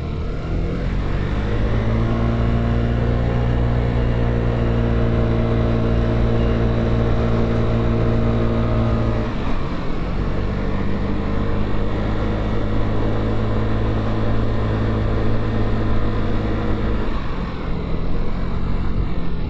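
Motorcycle engine heard from the rider's seat, pulling away and then running at a steady pitch; the note breaks briefly about halfway, as at a gear change, then steadies again and drops near the end as the throttle eases.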